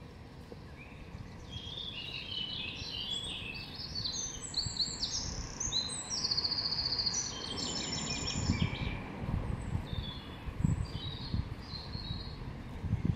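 A songbird singing a long, varied warbling song of quick high phrases and fast trills, strongest from about a second and a half in and trailing off into softer phrases in the second half, over a steady low outdoor rumble.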